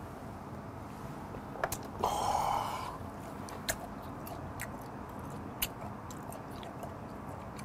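A man drinking a shot of soju gives one breathy exhale about two seconds in, then chews raw fish with sparse soft mouth clicks over a steady low hiss.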